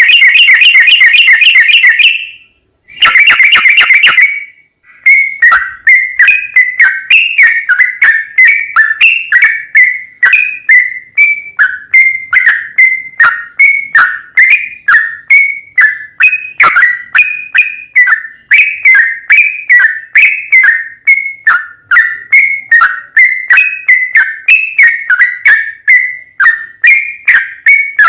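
Yellow-vented bulbul (trucukan) song, loud. It opens with two fast buzzy trills, then runs into a long unbroken series of short, sharp chirps, about three a second.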